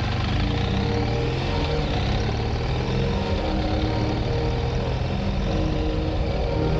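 BMW R1200GS Rally motorcycle's boxer-twin engine running steadily on the move.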